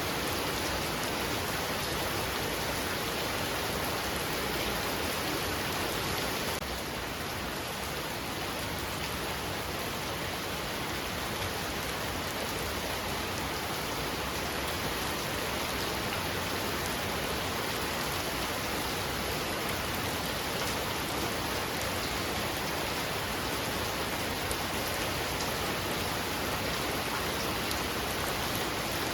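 Heavy rain pouring down in a steady, dense hiss that eases slightly about seven seconds in.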